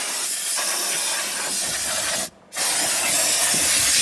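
Engine degreaser spraying in a steady hiss onto an aircraft engine. The spray stops for a moment a little over two seconds in, then starts again.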